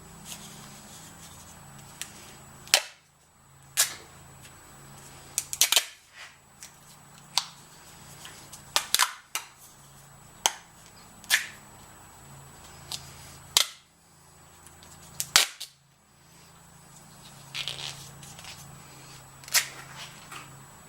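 Irregular sharp clicks and knocks, about fifteen in twenty seconds and unevenly spaced, over a low steady hum that cuts out briefly a few times.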